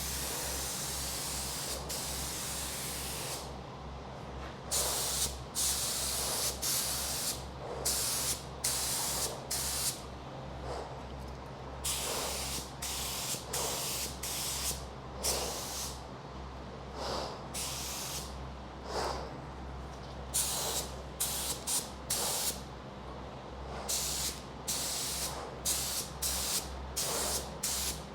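Air spray gun spraying epoxy primer in repeated trigger pulls: bursts of hiss, a long one at first and then many of about a second each with short gaps. A steady low hum runs underneath.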